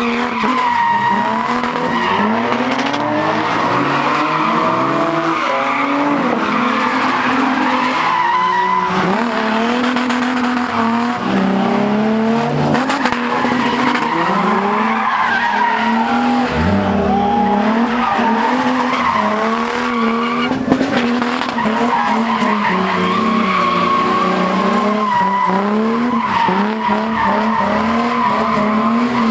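Cars drifting: engines revving up and down hard while tires squeal without a break, with one sharp crack about two-thirds of the way through.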